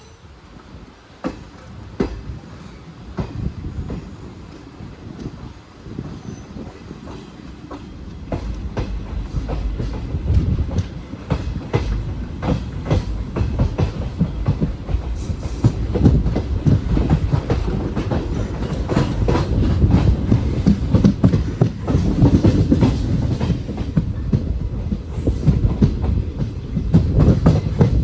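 Train wheels running over rail joints, clicking rhythmically over a low rumble, with a little wheel squeal. The sound grows louder over the first half as the train gathers speed.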